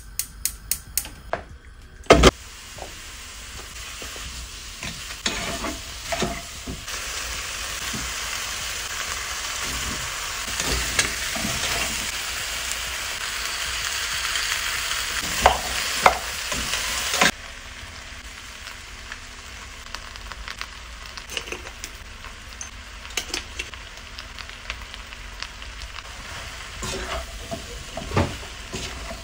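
Chicken and onions sizzling as they fry in a nonstick pot on a gas hob, with a spoon scraping and knocking against the pot as they are stirred. A few sharp clicks open it; the sizzle grows louder, then drops suddenly a little past halfway to a quieter sizzle.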